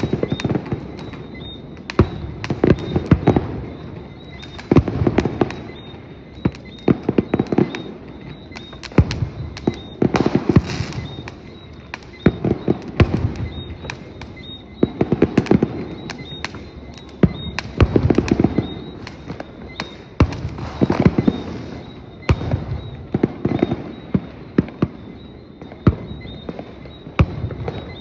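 Aerial fireworks bursting over and over, with sharp bangs in clusters every second or two and crackling between them.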